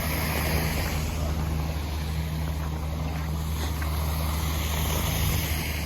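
An engine running steadily with a constant low hum, with wind noise on the microphone.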